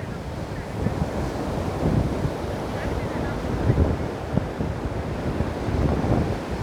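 Ocean surf breaking and washing on a beach, a continuous low rumble heaviest in the bass, with wind buffeting the microphone.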